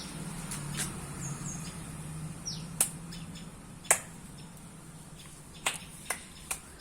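Birds chirping: a few short calls that slide down in pitch, among several sharp clicks, the loudest about three and four seconds in and three quicker ones near the end. A low steady hum runs under the first half.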